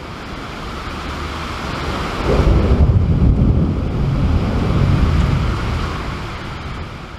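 Rolling thunder from a nearby lightning strike: a deep rumble that swells to its loudest about two seconds in, holds for a few seconds, then fades away.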